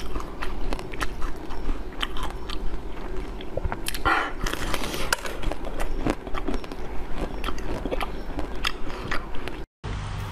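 Close-miked chewing of a soft, dark-spotted yellow sponge cake: a run of wet mouth clicks and smacks, with a louder, noisier bite or smack about four seconds in. The sound breaks off abruptly near the end.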